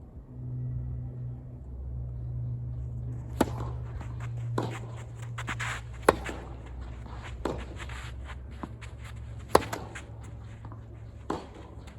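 Tennis ball struck back and forth in a rally: sharp racket hits every second and a half or so, alternating louder and fainter as the near and far player hit, starting a few seconds in. A low steady hum runs underneath.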